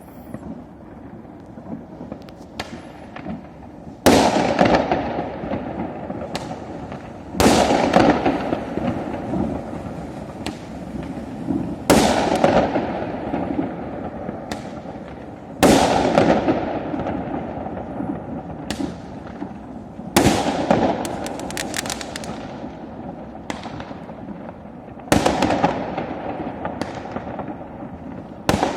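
Fireworks going off: a loud bang about every four seconds, seven in all, each followed by a fading tail, with smaller pops between them.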